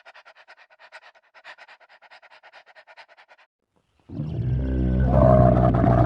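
A dog panting rapidly, about eight quick breaths a second, for about three and a half seconds. After a brief silence, a loud, deep, drawn-out animal call begins.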